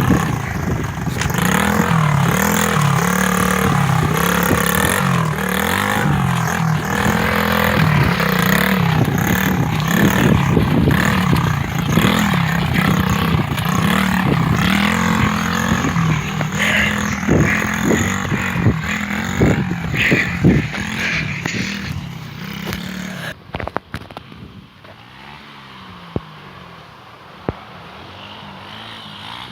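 80cc dirt bike engine running with its pitch rising and falling as the throttle is worked, with some clattering knocks. About 23 seconds in it drops suddenly to a much fainter engine sound.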